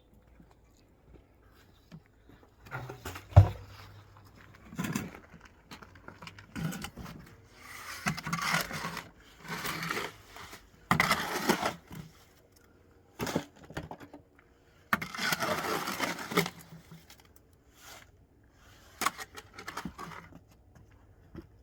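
Block-laying work: a heavy thud about three seconds in, then repeated rough scraping and knocking of blocks and building material being handled.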